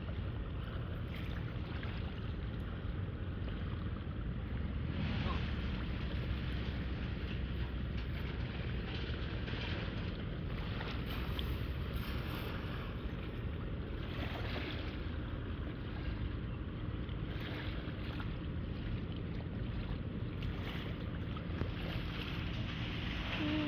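Steady wind buffeting the microphone over river water, with a faint steady low hum underneath.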